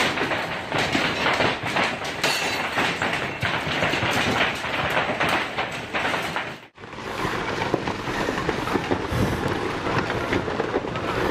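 Hailstones pelting hard in a dense, rapid clatter. About two-thirds of the way in the sound cuts out abruptly, then gives way to a steadier rushing noise.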